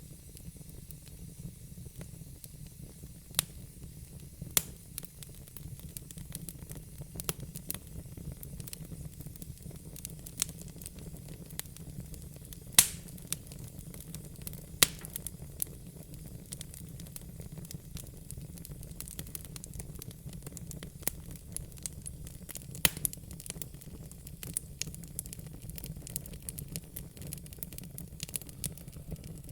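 Wood fire crackling, with many irregular sharp pops and snaps over a steady low hiss; the loudest pop comes about 13 seconds in.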